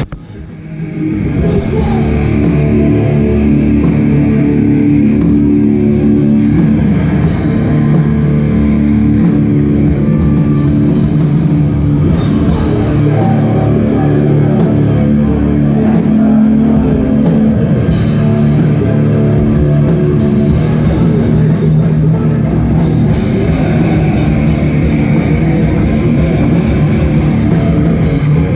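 Hardcore band playing live through a PA, with heavy distorted guitars, bass and drums. The sound drops out briefly right at the start, then comes back in and plays on steadily.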